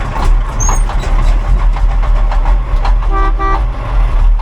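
Old grain truck's engine catching and running with a heavy low rumble as it is tow-started without its starter. A vehicle horn gives a short double toot about three seconds in.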